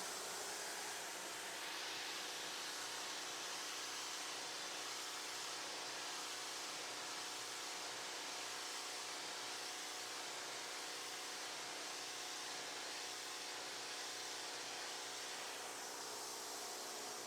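Pressure washer running, its water jet spraying with a steady hiss over the low hum of the machine. The spray hiss grows brighter about a second and a half in and eases back near the end.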